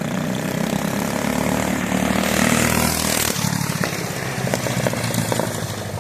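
A mini bike's small single-cylinder engine running under throttle, fitted with a PZ19 round-slide carburetor. It grows loudest about two to three seconds in, then eases off with a series of sharp pops near the end.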